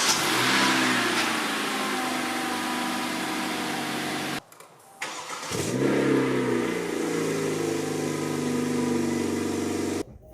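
2019 Kia Forte's four-cylinder engine starting through an aftermarket exhaust, flaring briefly and then settling to a steady idle. It happens twice, with a short break about four and a half seconds in.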